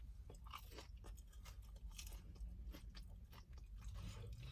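Faint close-up chewing of a breaded, fried jalapeño popper: soft, irregular crunches and crackles.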